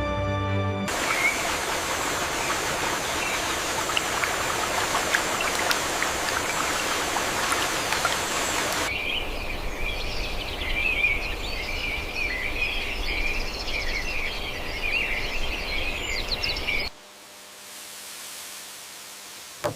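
Rushing water for about eight seconds. It cuts to a dense chorus of high chirping birdsong over a softer background, and then, near the end, to a much quieter low hum.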